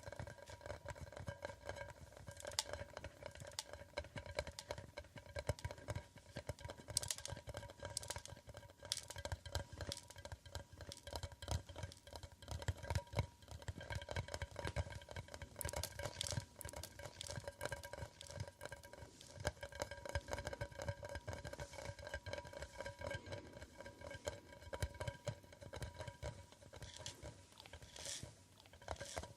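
Rapid, continuous tapping on an object for ASMR, with a faint steady ring from the object under the taps.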